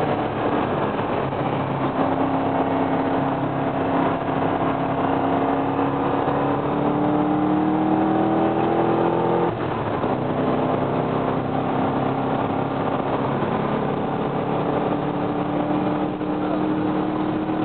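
Corvette Z06's 7-litre V8 heard from inside the cabin while accelerating hard: the engine note climbs steadily, drops sharply at an upshift about halfway through, then climbs again.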